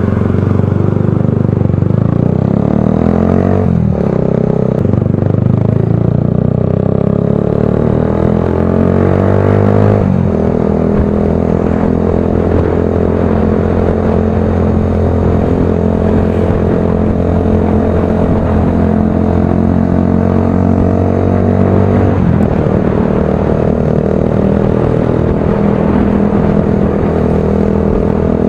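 Motorcycle with a loud aftermarket exhaust pipe running under way. The engine note climbs, then drops at gear changes about 4, 10 and 22 seconds in.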